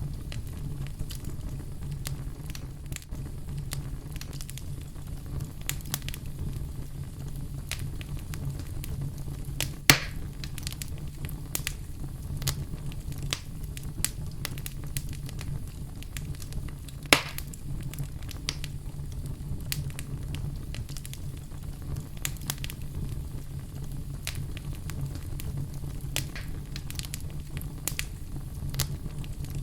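Wood fire burning in a fireplace: a steady low rumble of flames with frequent sharp crackles, and two louder pops, about ten and seventeen seconds in.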